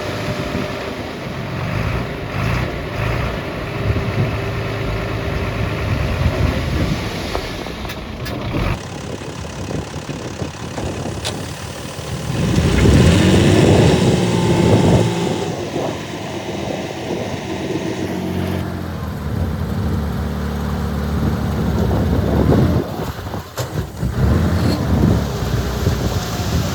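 Heavy diesel engines of earth-moving machinery, dump trucks and a bulldozer, running, with a louder stretch of revving a little before halfway. The background sound changes abruptly twice.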